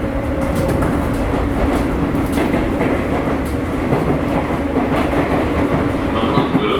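Sotetsu 8000 series electric train running at speed, heard from inside the car: wheels clicking over rail joints over a steady rumble and low hum.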